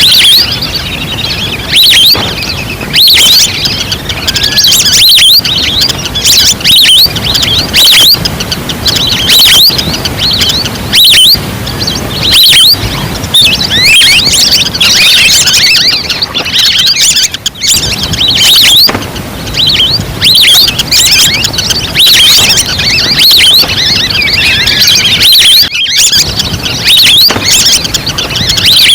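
Lure recording of a flock of wild ducks calling: many overlapping high, short whistling chirps, played back very loud and distorted.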